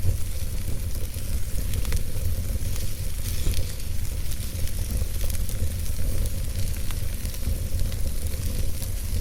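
Logs burning in a fireplace: steady crackling and hissing, with scattered sharp pops over a low rumble.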